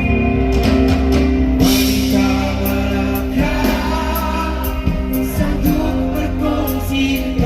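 Live band playing a Malay rock ballad, with electric guitar, drum kit and cymbal hits, and singing over it.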